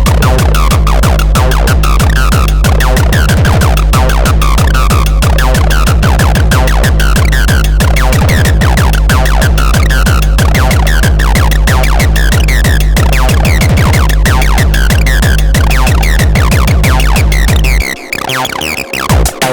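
Fast hardcore techno at 186 BPM: pounding distorted kick drum with a squelchy, sliding acid 303 bassline. The kick drops out near the end, leaving the synth line alone.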